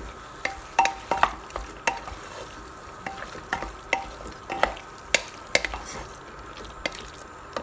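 A spoon stirring chicken frying in a metal pressure cooker: irregular scrapes and knocks against the pot, some ringing briefly, over a steady frying sizzle.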